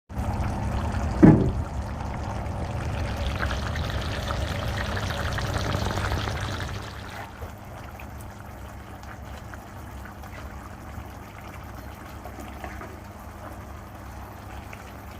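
Liquid pouring or running, louder for the first seven seconds or so, then fainter, with a brief sharp sound about a second in.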